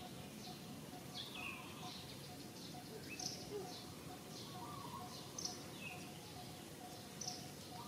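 Birds chirping faintly: short high notes that drop in pitch, repeating about once a second, with a soft evenly pulsing lower tone underneath.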